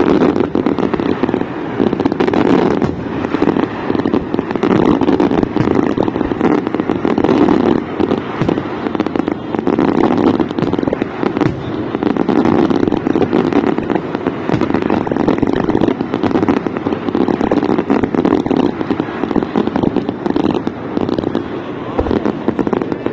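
A dense, loud barrage of fireworks: many overlapping bangs and crackles with a continuous rumble under them. It starts abruptly and eases off just before the end.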